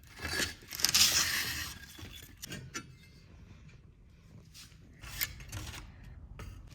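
Wood fire crackling in a fireplace: irregular sharp pops and snaps, with a louder hissing rush about a second in.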